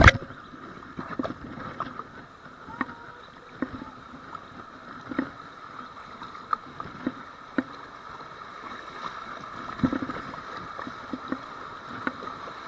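Kayak on a river: steady rushing water with scattered small splashes and knocks, as from paddle strokes and the paddle touching the hull.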